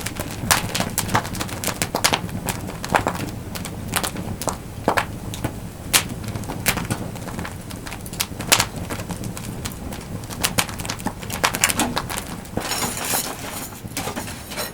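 Wood campfire crackling and popping, with irregular sharp snaps over a steady low rumble.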